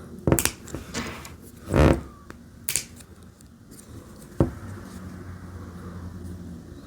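LEGO plastic bricks being handled and pressed together: several separate sharp clicks and knocks over the first four and a half seconds.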